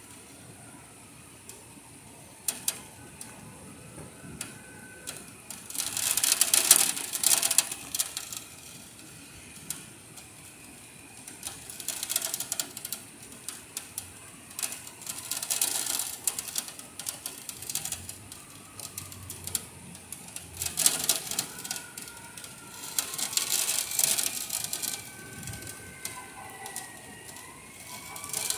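Rain spattering on the window ledge as dense ticking that swells in gusts every few seconds, over a steady hiss of rainfall.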